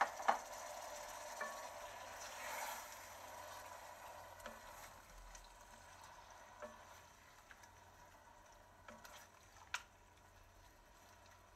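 Chopped tomatoes sizzling faintly in hot oil in a stainless steel pan, stirred with a wooden spatula that knocks against the pan now and then. The sizzle is strongest over the first few seconds and dies down toward the end.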